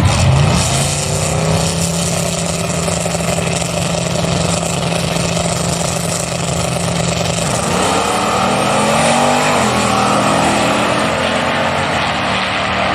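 Two Chevy S10 drag-race pickups launching hard and running a pass at full throttle. The start is loudest, then the engine note holds steady for several seconds before shifting in pitch about eight seconds in.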